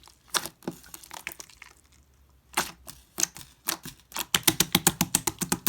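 Pearl slime being pressed and squished by hand, making sharp clicking and popping sounds: a few single pops, a short pause, then a fast run of about eight clicks a second near the end.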